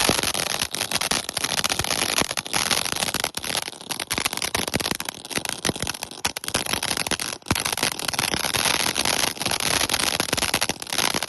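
Weco Vesuvio firework fountain burning with a dense crackling effect: a steady loud fizz packed with rapid sharp pops, dipping briefly about seven seconds in.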